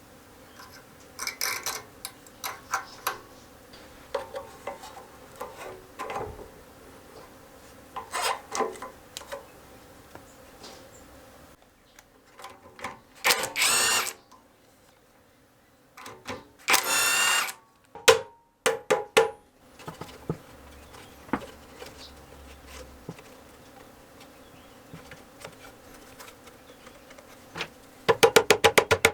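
Hand tools being handled and worked on a seized Honda lawnmower engine: scattered clicks and scrapes, two louder bursts of noise about a second long midway, and a fast, even run of clicks near the end like a ratchet wrench turning.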